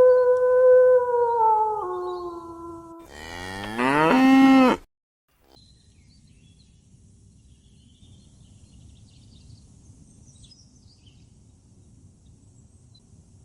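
Cow mooing: one long moo that steps down slightly in pitch, then a second, rising moo that cuts off abruptly about five seconds in. After that only faint outdoor background remains, with a few faint chirps.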